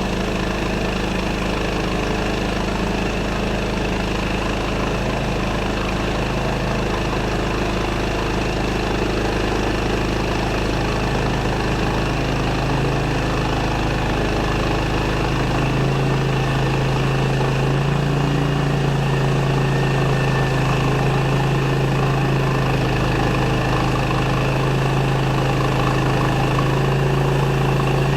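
Sawmill engine running steadily, its note strengthening a little about halfway through.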